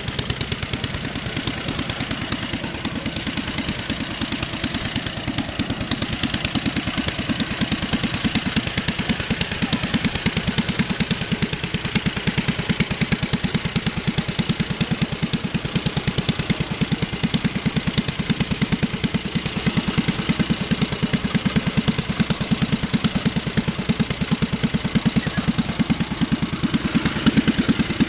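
Engine of a homemade tractor running steadily, an even train of rapid firing pulses.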